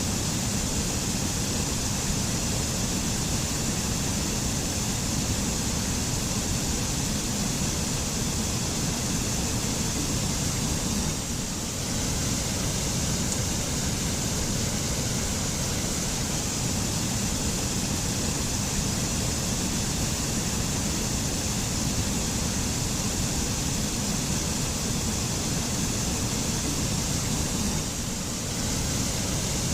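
Forest waterfall: falling water rushing steadily in an even, unbroken roar.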